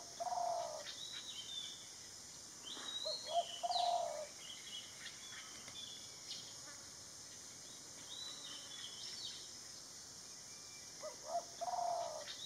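Garden birds calling: a low call sounds three times, at the start, about three seconds in and near the end, with high chirps in between over a steady high hiss.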